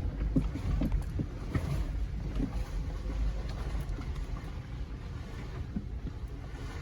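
2020 Jeep Gladiator Rubicon's 3.6 Pentastar V6 running low and steady as the truck crawls a trail, heard from inside the cab. Scattered knocks and rattles come as it works over rough ground, most of them in the first few seconds.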